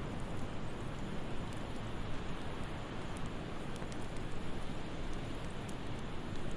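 Fireplace fire crackling: a steady soft rush with a few small, scattered pops.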